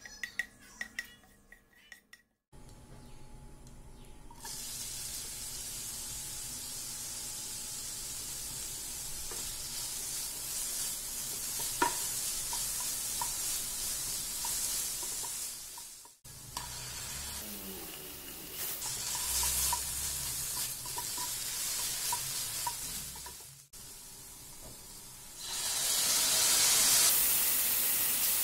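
Chopped onions sizzling in hot oil in a frying pan while a spatula stirs and scrapes them, with a few clicks of the spatula on the pan. Near the end the hiss grows louder and brighter as chopped tomato goes into the hot pan.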